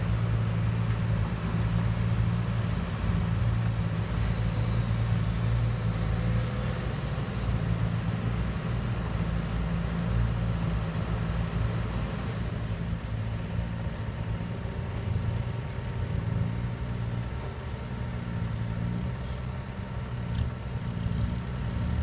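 Kobelco excavator's diesel engine running steadily with a low drone, easing slightly in the second half.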